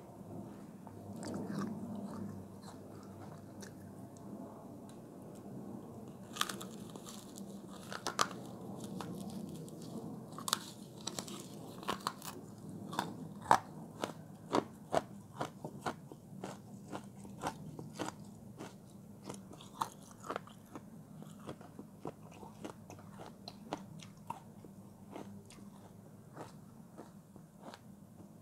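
Close crunchy chewing of a mouthful of frozen block: softer, muffled chewing at first, then from about six seconds in a dense run of sharp crunches that thins out towards the end.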